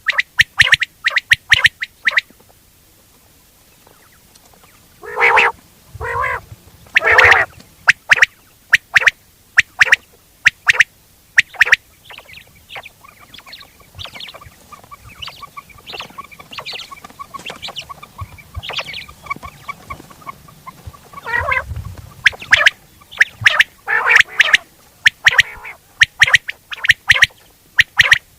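Quail calling in rapid runs of short sharp notes, broken by a brief pause and a few louder, harsher calls about five to seven seconds in and again near twenty-two seconds.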